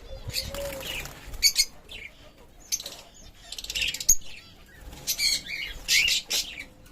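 Pet parrots calling: a string of short, shrill chirps and squawks, coming every second or so.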